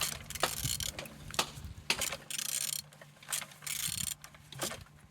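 Socket ratchet wrench clicking in several strokes as an engine's crankshaft is turned over by hand, a check that the engine turns freely and is not seized.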